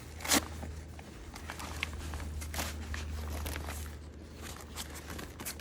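Handling of a fabric vehicle cover and its Velcro straps: scattered rustles and short rasps, one sharp rasp just after the start, over a steady low hum.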